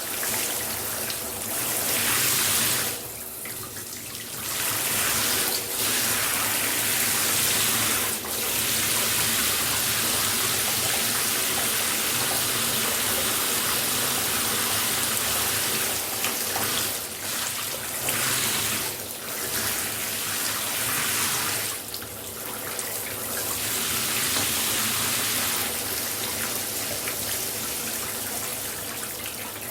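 Shower water spraying and splashing steadily, a dense hiss with a few brief dips in level where the stream is broken for a moment.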